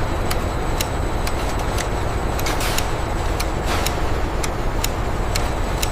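Factory production-line machinery running: a steady rumble and hiss with a sharp click about twice a second, and a few short hissing bursts near the middle.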